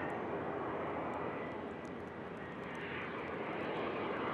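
Business jet engines running, a steady rush with a faint high whine that grows louder near the end.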